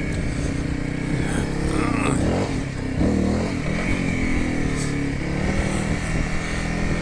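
Honda CRF300L's single-cylinder four-stroke engine running under way, its pitch rising and falling several times with the throttle.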